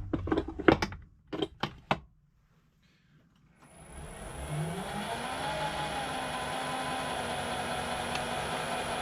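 Metal lathe starting up after a few short knocks: its motor and chuck spin up with a rising pitch about three and a half seconds in, then run steadily at a slow belt-speed setting.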